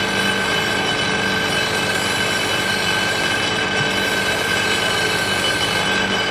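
A machine running steadily, a continuous loud noise with a high steady whine over it.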